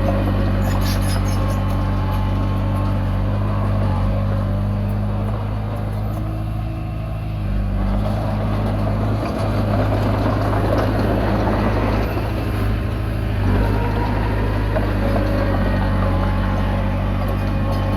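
Komatsu D20P bulldozer's diesel engine running steadily under load. Its note drops back about six seconds in and builds again a couple of seconds later. A few faint metallic clicks come about a second in.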